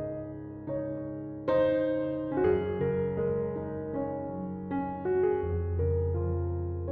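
Background piano music, slow chords with a held bass note joining near the end.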